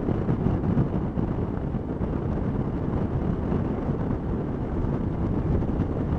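Steady wind rush and road noise on the microphone of a camera riding on a 2012 Suzuki V-Strom 650 motorcycle at road speed.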